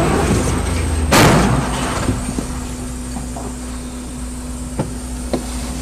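A vehicle's engine running steadily, heard from inside the cab, with a short, loud burst of noise about a second in and a few light knocks near the end.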